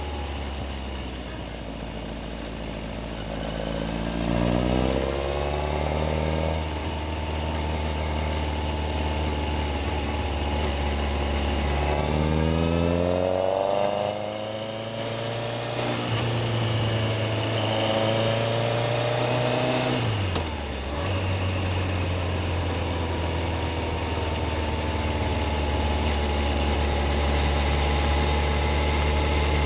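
Yamaha XJR1300's inline-four engine in stop-and-go city riding. It runs low and steady at first, revs rise a few seconds in and again around twelve seconds, and it holds a higher note. Near twenty seconds the revs drop, then settle to a steady lower note.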